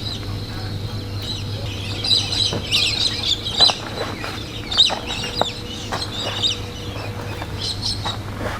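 Birds chirping and calling in quick short notes, thickest through the middle, over a steady low hum.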